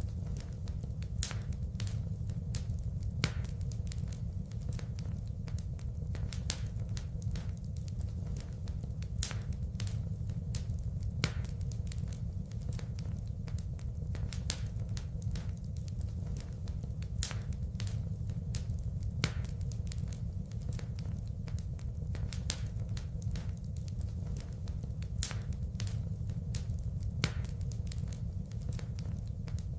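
Wood fire in a fireplace crackling, with frequent sharp pops and snaps of burning wood over a steady low rumble.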